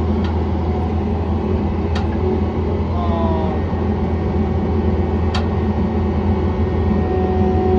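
John Deere 317 skid steer loader's engine running steadily with a low drone. Two sharp clicks sound over it, and a short falling whine comes about three seconds in.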